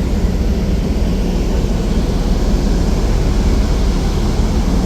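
Steady low rumble of a ferry's engines heard aboard the ship, with no change in level.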